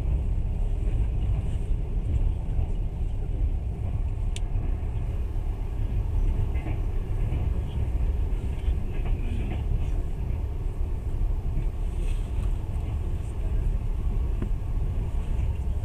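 Steady low rumble of a passenger train running along the track, heard from inside the carriage, with a single sharp click about four seconds in.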